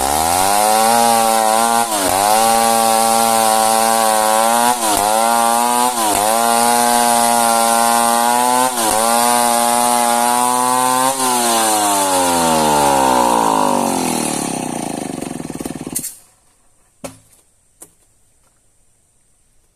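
Chainsaw cutting through a hard old merbau log at full throttle, its engine speed dipping briefly several times as the chain bites. About eleven seconds in the engine winds down, falling steadily in pitch, and stops near the end, followed by a couple of sharp knocks.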